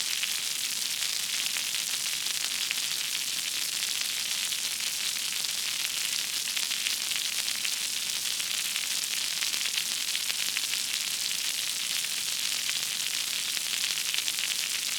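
A steady, high hiss with a fine crackle through it, even in level throughout, like sizzling or static.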